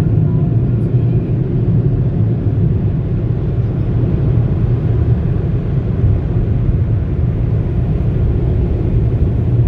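Car wash machinery running: a loud, steady, low rumble that holds even throughout.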